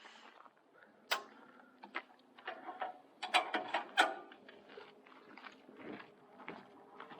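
Irregular clicks and knocks of truck cap camper hardware being handled as the camper is closed up for travel, with a few sharp knocks about a second in and between three and four seconds in.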